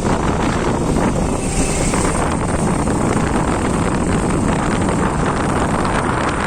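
Steady wind rush over the microphone, mixed with motorcycle engine and road noise, while riding at speed.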